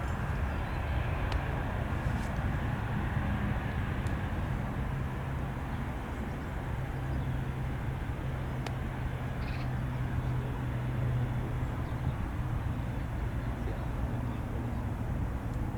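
Boeing 777-300ER's twin GE90 jet engines running at low thrust: a steady rumble with a low steady hum underneath.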